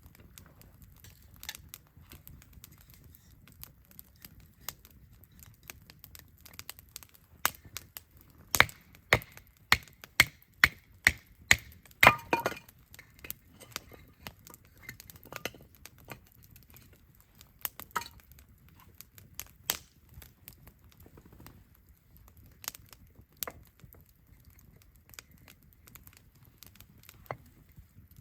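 Wood campfire crackling with scattered sharp pops, and a run of much louder pops from about eight to twelve seconds in, over a faint low rumble.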